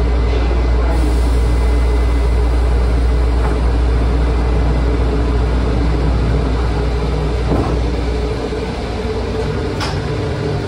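O'Hare airport transit people-mover train, a steady low rumble that eases off about eight seconds in, with a brief high squeal near the end.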